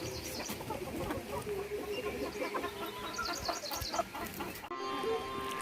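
Domestic chickens clucking in short, irregular calls, with high chirps in the middle. The sound breaks off abruptly near the end.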